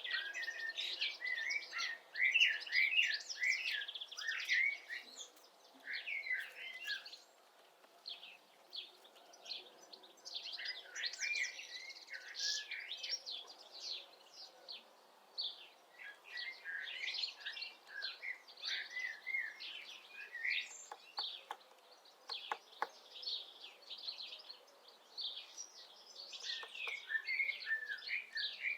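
Songbirds singing in repeated bouts of quick, chirping phrases, with a few faint taps near the middle.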